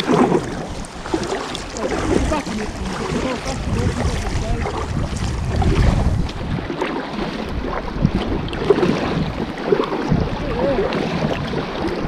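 Wind buffeting the microphone in uneven gusts, over water sounds around a kayak on a lake.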